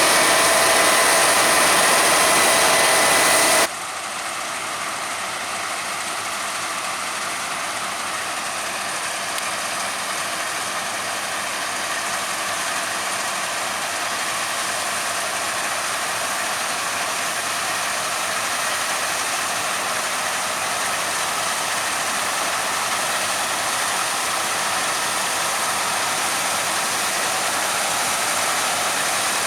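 Harvest machinery running: a loud, close engine with a steady hum for the first few seconds, then an abrupt cut to a quieter, even mechanical whirr and rattle that slowly grows louder.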